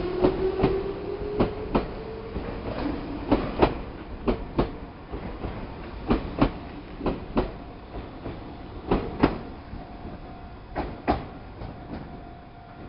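A Meitetsu Panorama Super electric train's wheels clacking over rail joints at slow speed, in pairs of clicks from each bogie's two axles, every second or two. A rising motor whine fades out just after the start, and the clacking grows fainter near the end.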